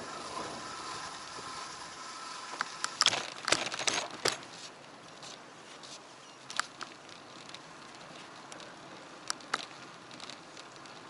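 Bicycle ride heard through an action camera: steady road and wind noise, with a cluster of sharp rattles and knocks about three to four seconds in and a few single clicks later.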